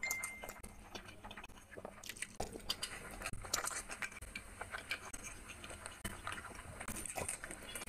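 Wet chewing and mouth smacking of someone eating rice and chicken curry by hand, with soft squishes of fingers in the curry-soaked rice. The sounds come as many short, irregular clicks and smacks.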